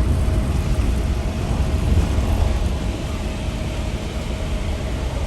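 Steady road and engine noise inside a moving vehicle's cab: a low rumble with a faint steady tone above it.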